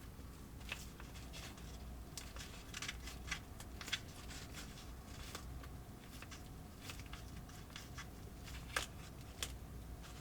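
Faint, irregular small clicks and scrapes of hands handling a plastic DIY candy-kit tray, packets and utensils, with a couple of sharper ticks, one about four seconds in and one near nine seconds.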